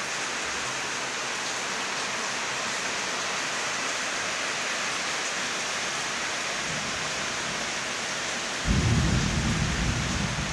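Steady rain falling, an even hiss throughout. A louder low rumble comes in near the end and eases off.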